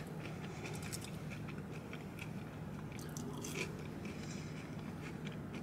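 A person chewing food with the mouth closed, with soft, scattered crunches, heard close up inside a car over a steady low hum.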